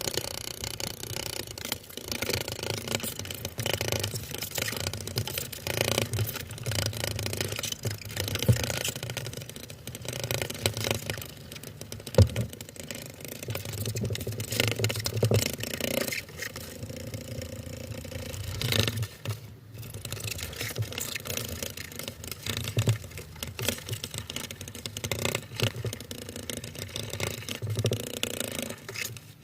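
A female death's-head hawkmoth (Acherontia atropos) beating and vibrating her wings: a buzzing whir with rustling and scraping in uneven bouts, and one sharp tap about twelve seconds in.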